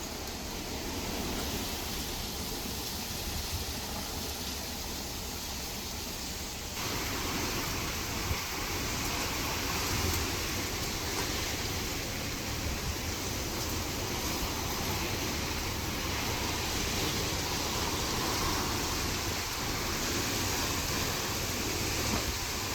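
Heavy rain and strong wind of a rainstorm: a steady rushing noise with a low rumble, growing louder about seven seconds in.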